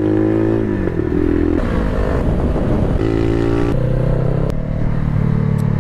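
Honda CBR500R's parallel-twin engine running at changing revs. Its pitch drops, rises and settles several times, holding steady through the last second or so.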